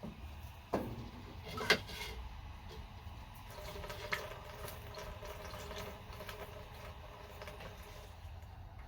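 Vinegar being poured from a one-gallon jug into a steel motorcycle gas tank to fill it, a steady pour with two knocks in the first two seconds. This is the tank being filled with vinegar to soak the rust out.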